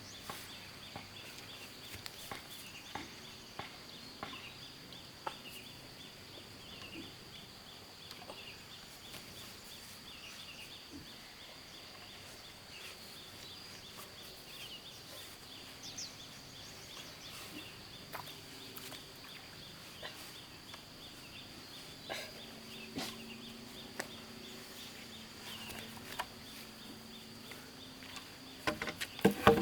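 Outdoor wildlife ambience: a steady high drone and rows of short repeated chirps. Scattered sharp knocks run through it, with a cluster of louder knocks near the end, typical of stones being handled.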